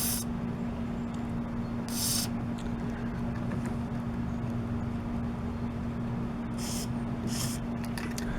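Aerosol can of WD-40 Specialist silicone lubricant spraying in four short hisses, about two seconds apart and then two close together near the end, onto the pivot pin of a sticky tailgate latch. A steady low hum runs underneath.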